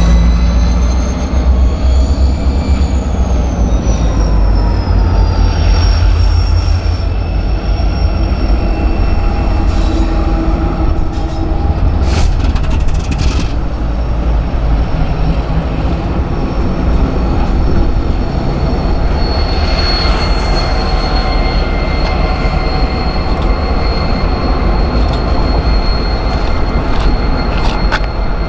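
Freight train rolling past with a steady heavy rumble and a high squeal from its wheels that slowly bends in pitch. There are a few sharp clicks about ten to thirteen seconds in.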